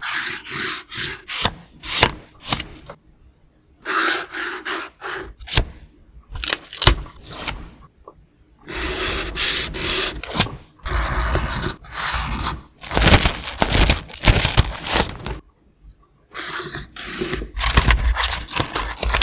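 Paper being handled for scrapbooking: repeated bursts of rubbing, scraping and rustling, broken by short pauses.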